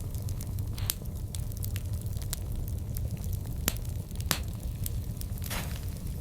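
Wood fire burning, with a steady low rumble and frequent sharp crackles and pops, the loudest about a second in, in the middle, and a hissing pop near the end.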